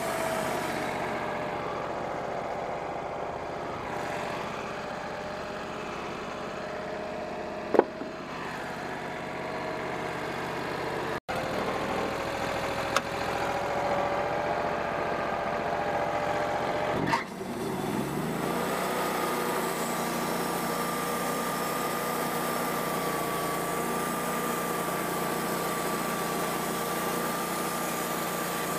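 A Wood-Mizer portable sawmill running as it saws a black walnut log, a steady machine drone. Its main tone falls slightly at the start and holds. About two-thirds of the way in, after a sharp click, it steps up to a higher pitch and stays there. There is another sharp click about a quarter of the way in, and a sudden break near the middle.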